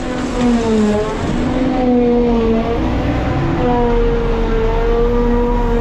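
A farm machine's diesel engine running steadily under load, a droning hum whose pitch sags slightly about a second in and then holds.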